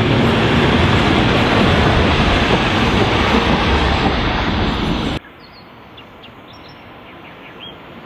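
Heritage railmotor train with its Brill trailer car passing close and moving away, a loud steady rumble of wheels on rails. About five seconds in the noise cuts off suddenly, leaving quiet open-air background with a few faint bird chirps.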